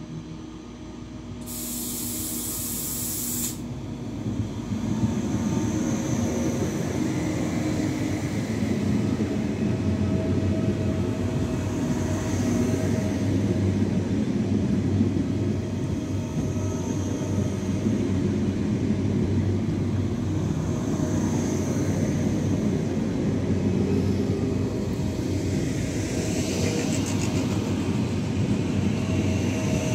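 A Deutsche Bahn ICE T electric multiple unit rolls through the station, its wheels and running gear making a steady rumble that builds over the first few seconds as it draws alongside and then holds as the carriages pass. There is a brief hiss about two seconds in.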